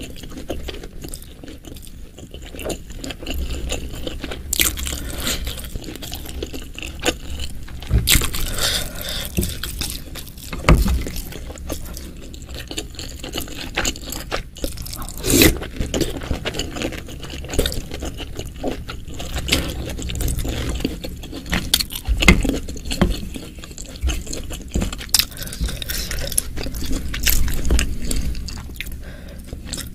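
Close-miked chewing of chewy beef kikil (cow skin and tendon) in spicy chilli broth: irregular wet mouth clicks and squishes. A wooden spoon scrapes in the bowl now and then.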